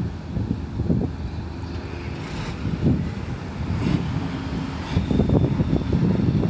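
Excavator's diesel engine running at a construction dig, its low rumble rising and falling as it works, with wind buffeting the microphone.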